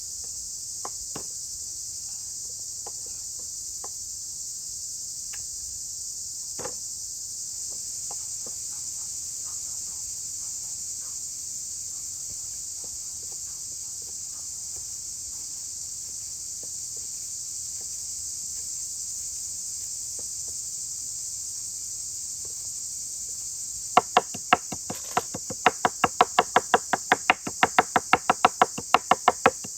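Crickets chirring in a steady high-pitched drone. About 24 seconds in, a fast run of sharp knocks begins, about five a second, much louder than the crickets.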